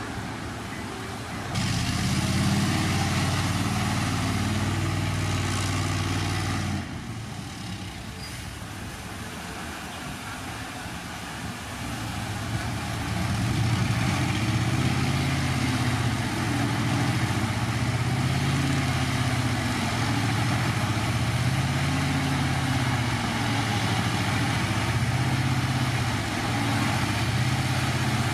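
Heavy diesel engines of earthmoving machinery running, the pitch rising and falling as they work under load. The sound jumps louder about a second and a half in, drops suddenly around seven seconds, and swells again about halfway through.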